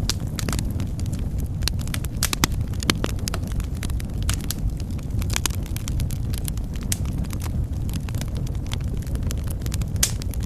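Wood fire burning in a fireplace: a steady low rumble of flames with sharp, irregular pops and crackles of burning wood, several a second.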